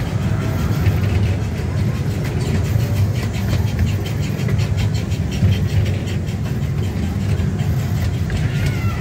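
Small amusement-park train rolling along its track: a steady low rumble with rapid clicking from the wheels over the rails.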